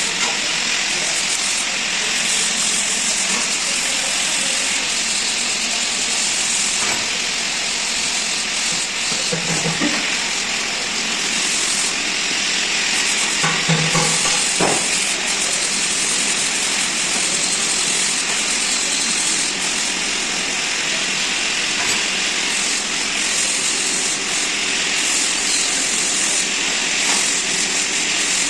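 Metal lathe running while turning a steel flange, a steady hissing cutting noise that carries on throughout. Brief pitched sounds come through about ten seconds in and again around fourteen seconds.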